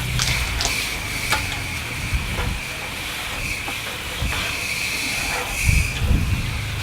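Low-pressure garden hose spraying water through an air-conditioning condenser's fins from the inside: a steady hiss with scattered ticks and splashes.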